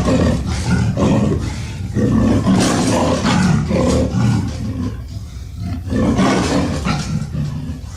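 Tyrannosaurus rex roar sound effect: a deep, rough roar that swells and eases several times.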